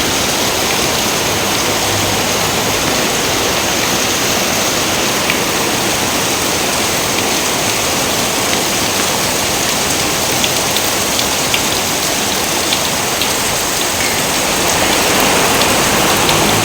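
Steady, loud rain with scattered sharp drop ticks, growing a little louder near the end.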